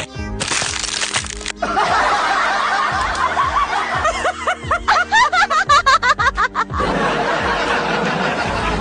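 Snickering laughter over background music, with a quick run of high giggles about midway.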